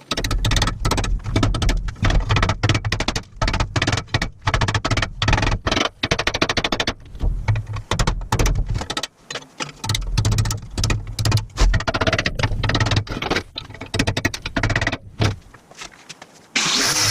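A power tool working on the rusty cast iron stove, running in short, uneven spells with brief gaps, then going steadier near the end.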